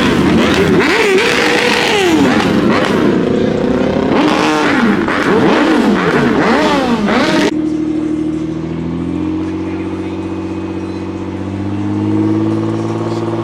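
Car engines revving hard and repeatedly, their pitch rising and falling again and again. After a sudden cut, one car engine idles steadily, the revs rising slightly a couple of times as it warms up.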